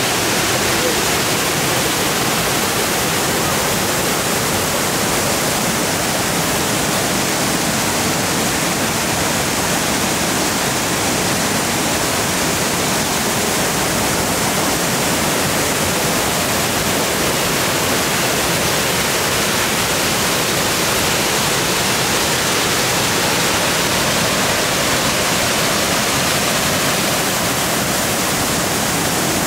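Kembar Waterfall's split falls pouring into the pool below, a steady, unbroken rush of water.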